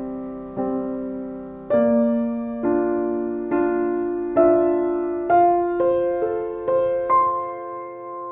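Soft, slow piano music: single notes and chords struck about once a second, each ringing out and fading before the next.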